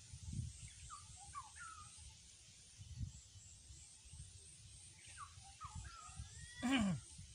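Small birds chirping in two short bursts of quick, sweeping notes, over a faint outdoor background. Near the end comes one short, louder cry that falls steeply in pitch.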